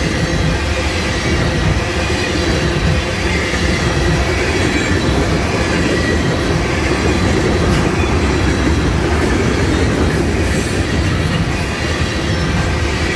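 Freight train of tank cars rolling steadily past close by: steel wheels rumbling and clattering on the rails.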